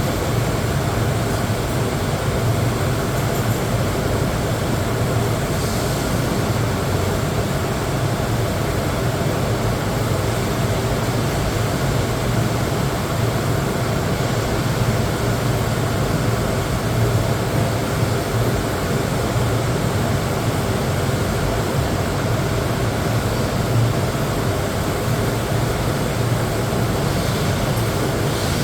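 TIG welding arc on mild steel, running without a break as a steady hiss over a low hum.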